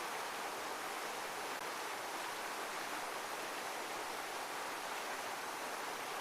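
Steady rushing of heavy running water, an even hiss strongest in the middle range with no rise and fall of breaking waves.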